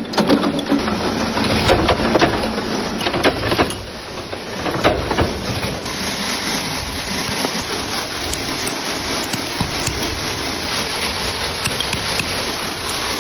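Metalworking workshop machinery running, with irregular sharp knocks and clanks over the first few seconds, then a steady, noisy mechanical din.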